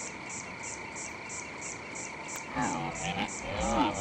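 A night chorus of rhythmic high chirping, about three chirps a second, over a steady high whine. About two-thirds in, a voice enters, sliding up and down in pitch.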